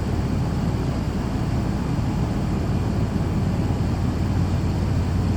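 Steady low rumble of a large car ferry under way, a constant drone with a hum underneath, typical of the ship's engines and propulsion heard on board.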